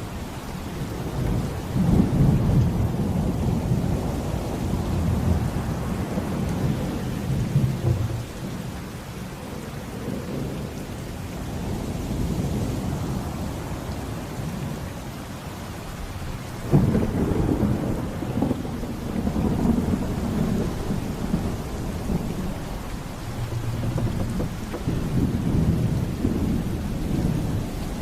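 Thunderstorm: heavy rain falling steadily under rolling low thunder, with a sharper thunderclap a little past halfway that rumbles on.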